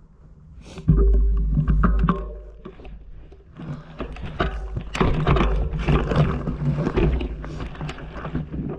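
Mountain bike riding over rough trail: tyres and bike rattling and clicking on rocks, over a low rumble from wind buffeting the microphone.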